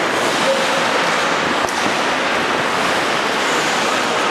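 Steady rushing noise of ice hockey play, skate blades scraping and carving the ice, with a single light stick or puck click about a second and a half in.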